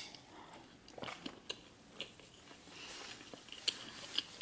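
Close-miked eating of McDonald's fast food: chewing, with a string of short crisp bites and mouth clicks.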